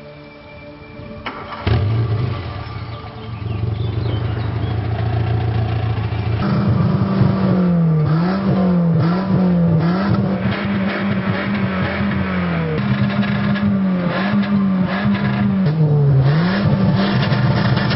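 Small Volkswagen hatchback's engine starting with a short crank about two seconds in and idling steadily for a few seconds. It is then revved up and down repeatedly with the accelerator, some revs quick and some held longer.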